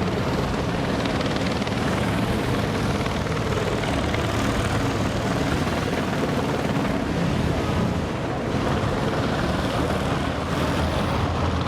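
Police helicopter running steadily, its rotor and engine noise filling the sound with a constant low drone.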